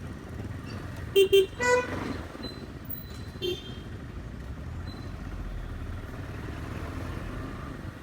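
Vehicle horns honking in road traffic: two quick beeps about a second in, a longer, higher-pitched honk right after, and one more short beep near the middle, over steady low road and engine noise.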